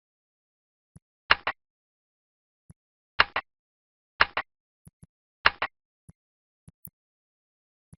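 Clicks from working a computer: four sharp double clicks a second or two apart, with fainter single ticks between them.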